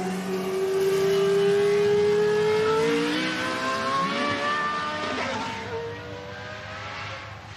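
Racing car engine accelerating hard, its note climbing and then dropping with an upshift about three seconds in. It grows fainter as the car draws away.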